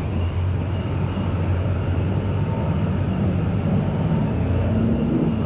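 Steady low engine and road drone of a moving bus, heard from inside the cabin.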